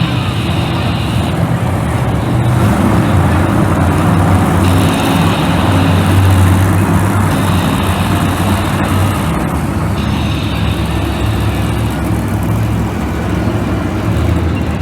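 Loud, steady engine drone from a show vehicle running, with a higher hiss that comes and goes several times.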